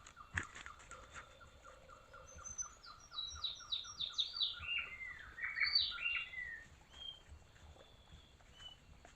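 Wild birds calling: a steady run of short repeated notes, joined about two and a half seconds in by a louder song of quick falling notes that lasts a few seconds. A sharp click sounds near the start.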